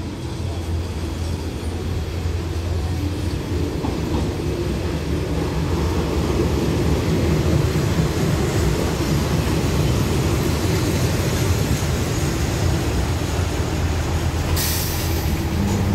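Diesel railcar train pulling in along the platform and slowing, its engines and wheels on the rails rumbling steadily and growing louder as the cars come alongside. A brief sharp hiss comes near the end.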